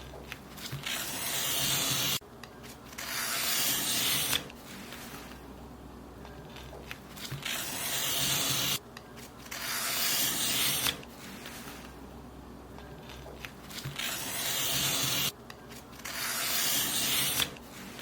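Paper being cut, six long slicing strokes in three pairs, each swelling for a second or two and then stopping abruptly.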